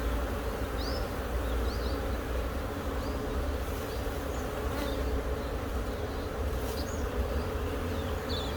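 A mass of honeybees from an exposed wild colony buzzing as a steady, dense hum.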